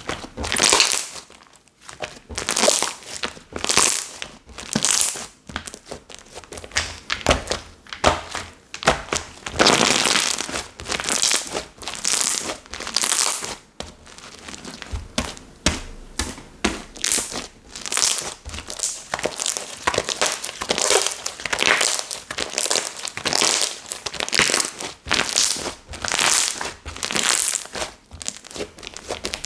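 Hands squeezing and stretching a 'sureureuk' slime, a steady run of noisy squishes, roughly one or two a second.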